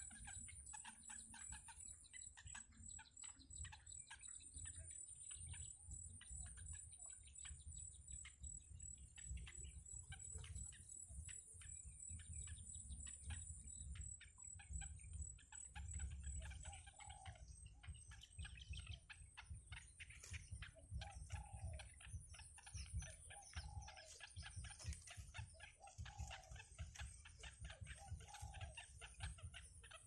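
Faint bird calls: short low notes repeating every second or two from about halfway through, over a dense patter of faint clicks and a steady high whine.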